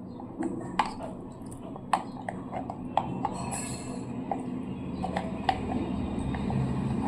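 Dishes and utensils clinking and tapping, a string of irregular light clicks and clinks, likely as food is served onto a plate.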